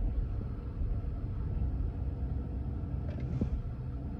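Car's low, steady rumble heard from inside the cabin.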